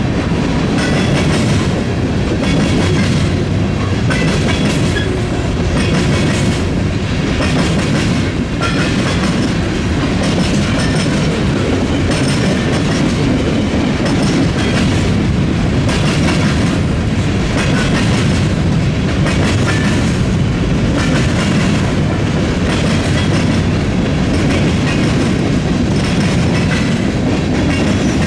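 Freight train cars rolling over a railroad diamond crossing: a steady heavy rumble with the wheels clacking over the crossing frogs again and again, about once a second.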